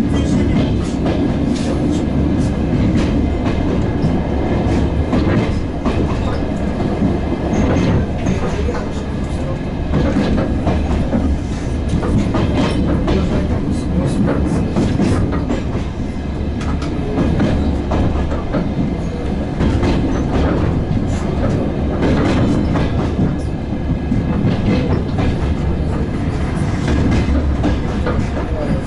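Diesel passenger train running along the line: a steady loud rumble, with wheels clicking over rail joints again and again.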